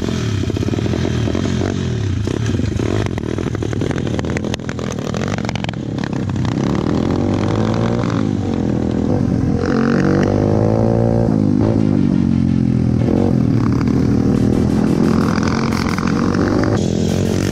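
Four-stroke single-cylinder pit bike engines revving up and down, over and over, as they ride off along a dirt track, with the chassis rattling over the bumps and wind noise.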